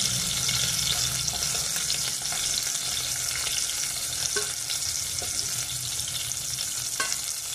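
Chicken pieces shallow-frying in hot oil in a wok, a steady sizzle with fine crackling. A couple of light clicks from a metal turner come in the second half.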